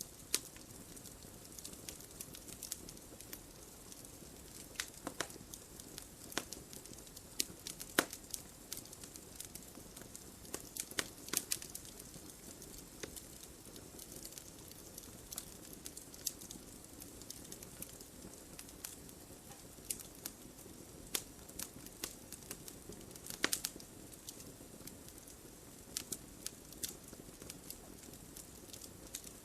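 Wood fire burning in a fireplace: a soft steady rustle of flames with irregular sharp crackles and pops, a few of them louder.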